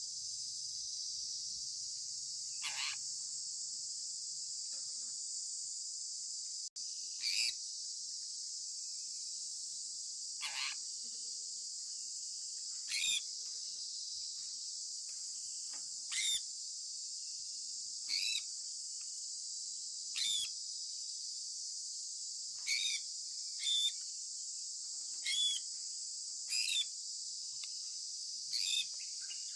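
Sun conure calling with short, sharp chirps that fall in pitch, about a dozen of them spaced two to three seconds apart, over a steady high hiss.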